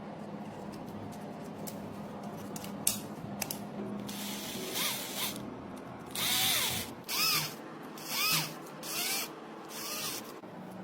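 A small power tool, drill-like, run in five or six short bursts, each with a brief rising-and-falling whine, after a few clicks.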